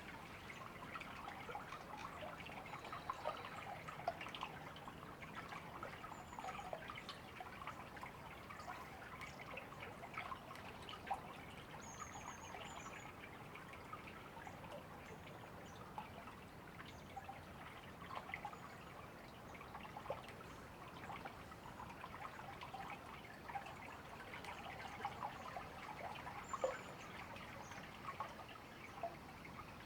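A shallow river trickling and babbling steadily, full of small plinks and drips. A bird gives a few brief, faint high chirps, about twelve seconds in and again near the end.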